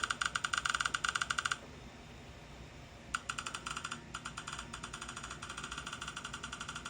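Rapid, evenly spaced electronic pulsing, about ten pulses a second, from dental scanning equipment used on the patient's mouth. It breaks off about a second and a half in and starts again about three seconds in.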